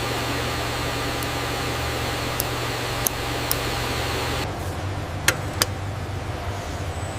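Steady hum and hiss of factory machinery with a few sharp clicks; about four and a half seconds in, the hiss drops away and two louder clicks follow close together.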